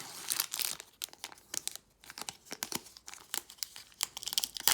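Foil wrapper of a Pokémon TCG booster pack crinkling and tearing as the pack is torn open, in runs of sharp crackles with a short lull about two seconds in.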